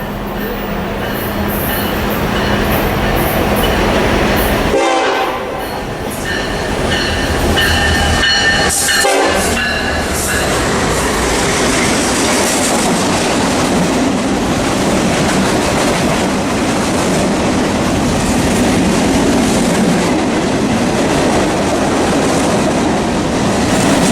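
Diesel locomotive-hauled train passing close by: the horn sounds for several seconds at the start, then the cars roll past with a steady rumble and the clatter of wheels over rail joints.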